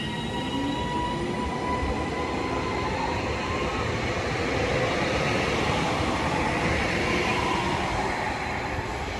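Class 331 electric multiple unit pulling out, its traction motors giving a rising whine in several tones. Wheel and rolling noise swells as the train passes, then eases off near the end.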